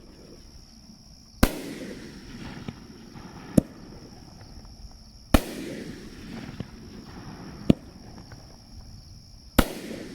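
A 9-shot 500 g firework cake firing shots one at a time, about every four seconds: each shot starts with a sharp launch report and a fading crackle, and a second sharp bang follows about two seconds later as the shell bursts. Three shots fire, about a second and a half in, midway, and near the end.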